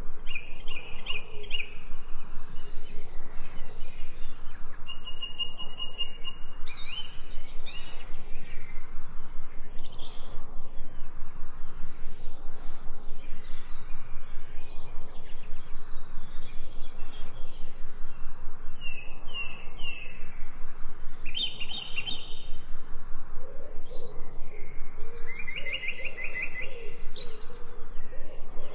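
Forest birds chirping and singing in short trilled phrases, one after another. A lower call joins in near the end, over a fast, even pulsing in the background.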